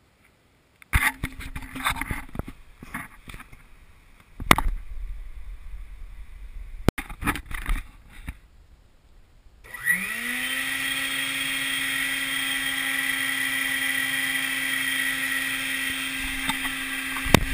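Knocks and clatter of handling, then about ten seconds in a Stinger wet/dry vac motor switches on, its whine rising quickly to a steady pitch and running on, as used to suck debris out of a clogged air-conditioner condensate drain line.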